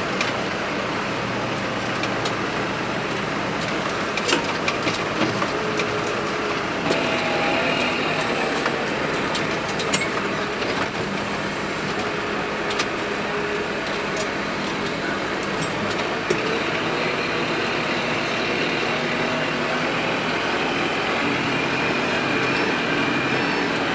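Heavy diesel engine running and working, its pitch shifting up and down as the load changes, with scattered sharp knocks and cracks over it, most of them in the first half.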